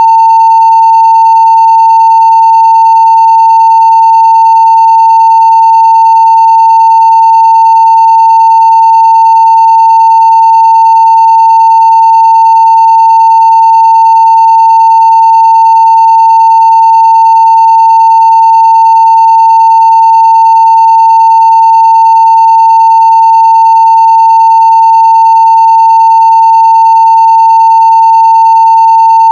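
Continuous 900 Hz sine-wave test tone at full scale (0 dB): one loud, unbroken steady pitch with no change, and very faint higher overtones.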